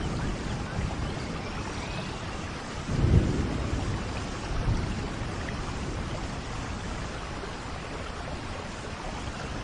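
Steady tropical rainfall, an even hiss of rain. A short, deep rumble swells about three seconds in, with a smaller one near five seconds.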